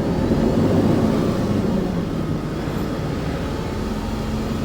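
Delivery truck's engine running as it drives, heard from inside the cab: a steady low drone that is a little louder in the first second or so.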